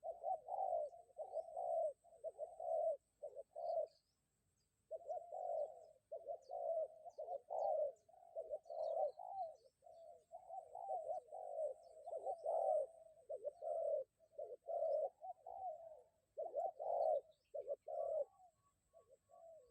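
Spotted doves cooing, one phrase after another with a short break about four seconds in.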